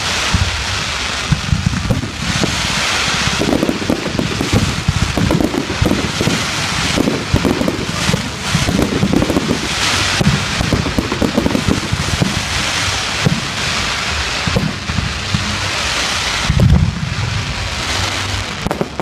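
Fireworks display: a dense, unbroken barrage of crackling with frequent sharp bangs and thumps, the loudest thump about three-quarters of the way through.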